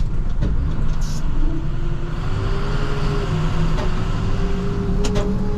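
International TerraStar plow truck running on the road, heard as a steady low rumble. About a second and a half in, a steady whine comes in and rises slightly, and a few sharp ticks sound near the end.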